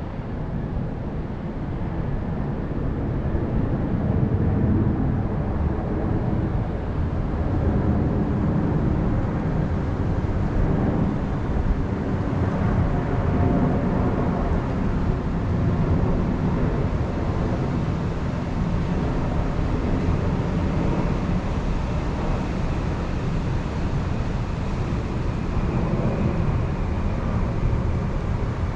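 Wind blowing across the microphone as a steady, loud low rumble with no distinct events.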